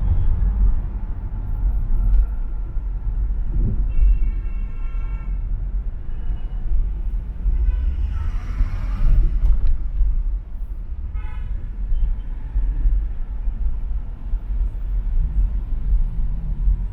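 Steady low rumble of road traffic on an urban expressway, with a car horn honking for about a second and a half some four seconds in and a shorter honk about eleven seconds in.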